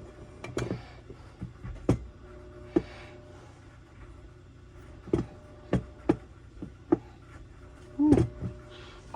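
Scattered knocks and light metallic taps of saw engine parts (crankcase halves, bearings, crankshaft) being handled on a workbench, about a dozen irregular strikes, a few with a short ring.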